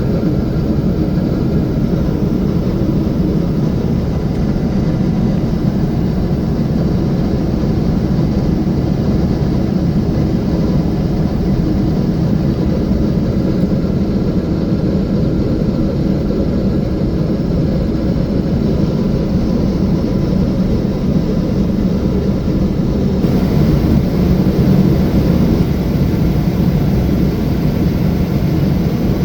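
Steady rumble and rush of a Boeing 777-300 airliner in flight, engine and airflow noise heard inside the cabin. About three-quarters of the way through, a higher hiss comes up and it gets slightly louder.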